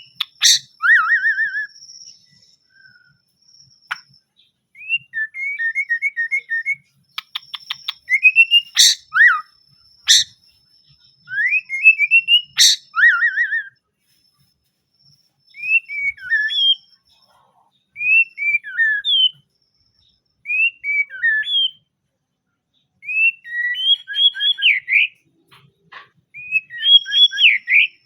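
White-rumped shama singing: loud, varied whistled phrases that slide up and down, each lasting a second or two, repeated every couple of seconds with short pauses between. There is a quick rattling note about seven seconds in, and a few sharp clicks.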